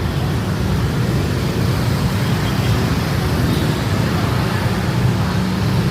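Steady rumble of street traffic, with motorbike engines running past.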